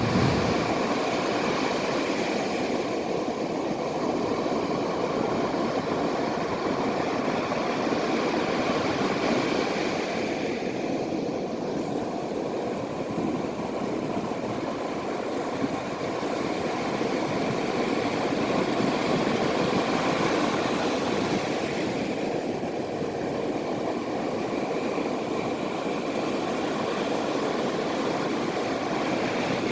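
Ocean surf: a steady rush of breaking waves that slowly swells and eases.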